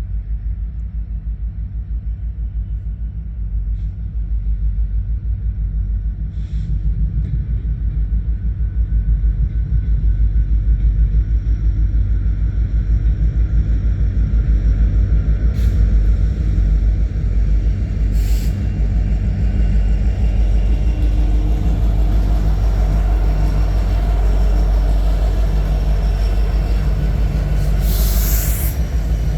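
Canadian National freight train's diesel locomotives rumbling with a fast, even throb, growing louder over the first ten seconds. Short bursts of hiss come twice near the middle and once, longer, near the end.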